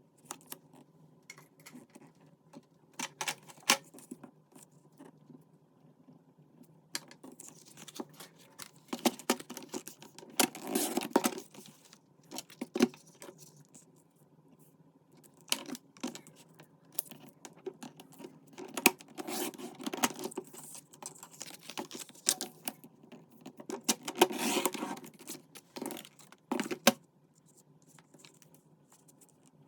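Paper and craft pieces being handled on a desk for journal decorating: scattered taps and clicks, with spells of paper rustling about ten, nineteen and twenty-four seconds in.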